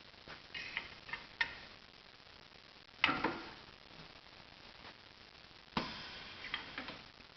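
Scattered sharp clicks and clanks with a short ring, in three groups: a few light clicks about a second in, a loud clank about three seconds in, and another clank followed by quick clicks near the end.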